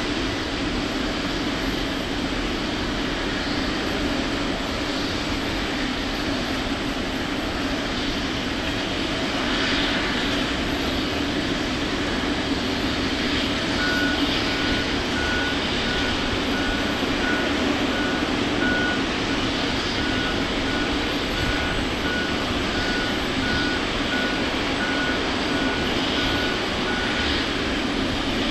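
Steady engine drone of a Boeing 747-400 freighter being pushed back by a tow tug. From about halfway in, a run of evenly spaced high warning beeps sounds over it.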